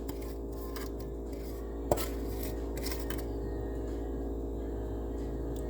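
A single sharp clink of a kitchen utensil or dish about two seconds in, amid faint handling sounds, over a steady hum.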